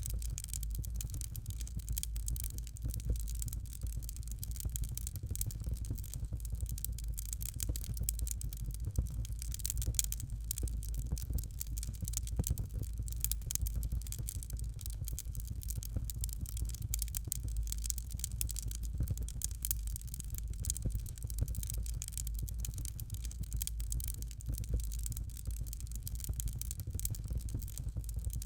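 Fireplace fire crackling steadily, with many small irregular pops over a low rumble.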